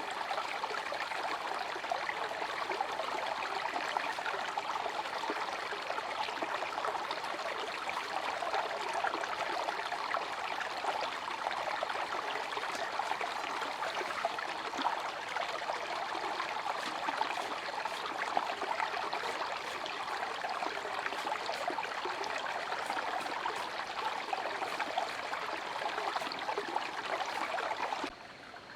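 Water running steadily, like a small stream or trickle, with a fine splashing texture; it stops suddenly near the end.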